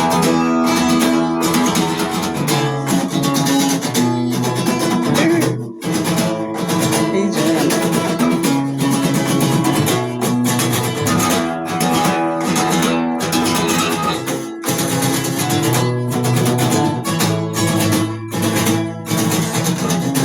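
Acoustic guitar playing an instrumental passage of a song, with no singing.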